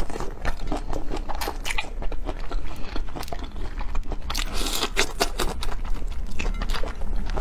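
Close-miked biting and chewing of seafood: a fast, irregular run of crisp crunches and wet smacks.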